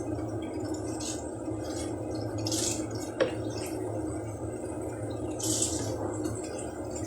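Water splashing and dripping in short bursts while vacuum cleaner parts are washed, over a steady low hum, with a single click a little after three seconds in.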